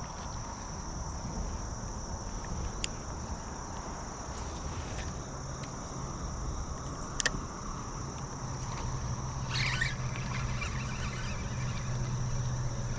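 Insects droning with one steady high-pitched tone over a low outdoor rumble, broken by two sharp clicks and a short splashy rustle about ten seconds in.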